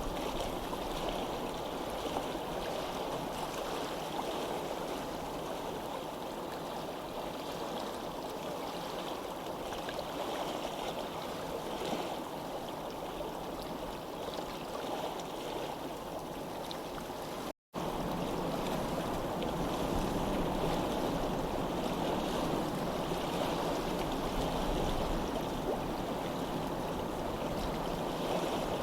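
Steady rushing of running water. It cuts out completely for a split second about two-thirds of the way through, then resumes slightly louder with more low rumble.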